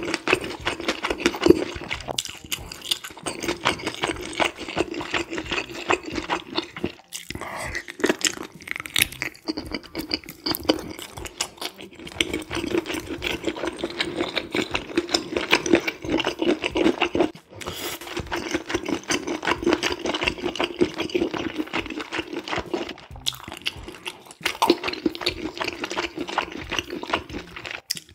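Close-miked chewing of saucy stir-fried squid and pork: rapid wet mouth clicks and smacks in several bouts of a few seconds each, with brief pauses between bites.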